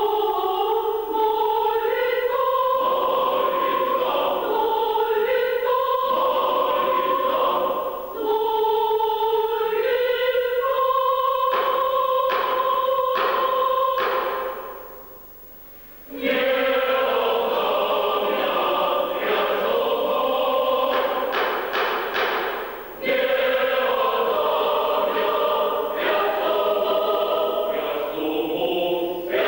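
Choir singing in parts, with held chords broken by short, sharp staccato strokes. The voices stop for about a second and a half midway, then come back in.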